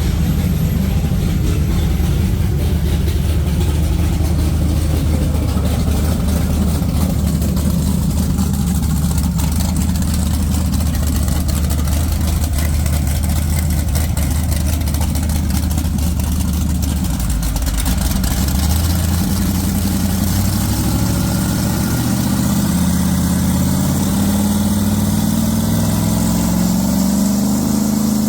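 Schumaker Racing 598ci big-block V8 in a Baja 25 Outlaw running through Stelling headers and thru-hull exhaust, loaded on a propshaft dyno. It runs steadily at a low speed, then from about two-thirds of the way in the revs climb gradually.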